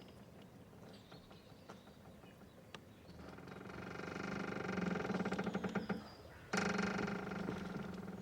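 A boat's rope creaking under strain. The first few seconds are quiet with a few small clicks, then a long squeaking creak builds from about three seconds in, and a second, louder creak starts suddenly near the end.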